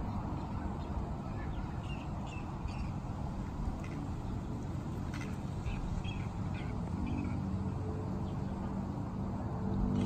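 Small birds chirping in short, scattered calls over a steady low rush of wind on the microphone; the chirps fall mostly in the first two-thirds and then stop.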